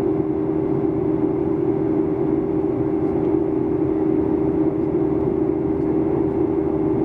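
Steady drone inside the cabin of a Boeing 737-800, from its CFM56 engines and the rushing air, with a constant low hum running through it.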